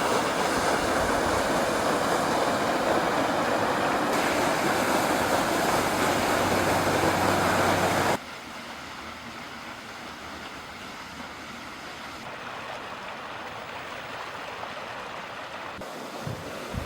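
Steady rushing of water at a partly frozen waterfall. About eight seconds in it drops suddenly to a quieter, steady hiss.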